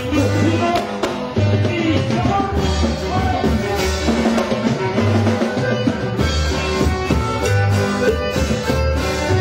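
Norteño band playing an instrumental passage, with drums and a bass line under sustained melody notes and no singing.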